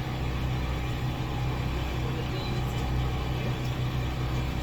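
Steady low machine hum, like an engine idling, holding an even pitch without a break.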